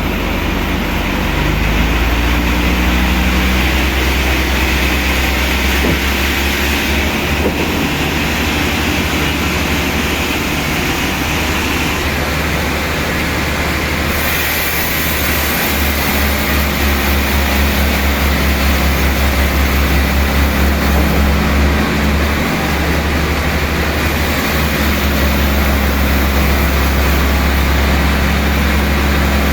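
Heavy machinery engine running steadily with a deep, continuous hum and a wash of mechanical noise.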